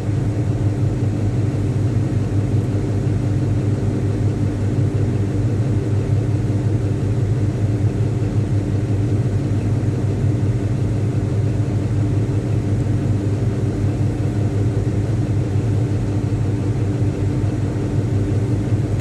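Caterpillar 777D haul truck's large diesel engine running steadily at a constant speed under a ground test, a heavy low drone that neither rises nor falls.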